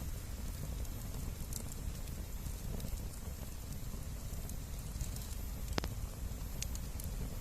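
Wood bonfire crackling, with scattered sharp pops and one clearer snap about six seconds in, over a steady low rumble.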